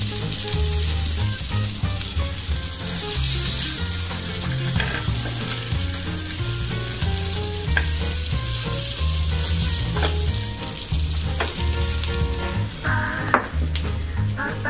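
Tandoori-marinated chicken pieces sizzling in butter on a hot flat iron griddle (tawa), with a few light scrapes and clicks of a metal spatula lifting them off the pan.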